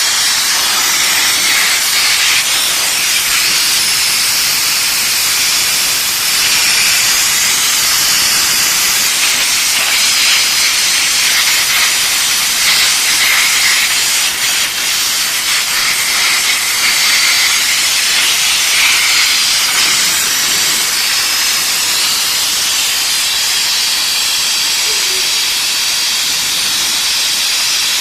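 Steam jet from an LPG-fired steam car washing machine, spraying with a loud, steady hiss.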